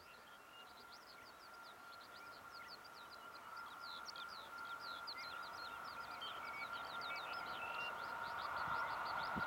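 Many birds chirping in quick, short, repeated calls, over a steady high whine that grows louder throughout: the blower of an approaching WAP-4E electric locomotive.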